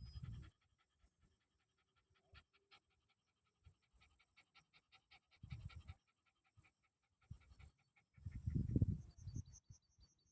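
An animal panting close to the microphone, a run of quick rhythmic breaths with heavier, louder breathing about eight seconds in.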